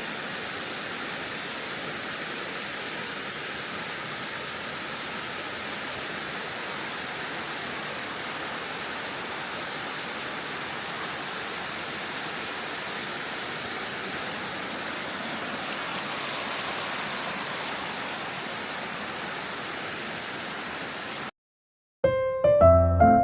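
Steady rush of water from a mountain valley stream flowing over rocks. It cuts off suddenly about 21 seconds in, and piano music begins a moment later.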